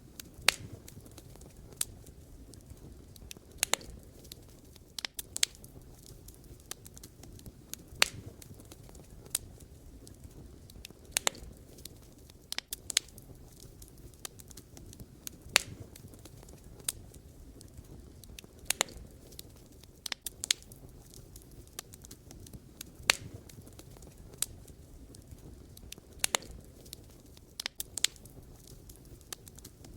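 Wood fire crackling: logs burning with a low steady rush and sharp, irregular pops and snaps, sometimes several in quick succession.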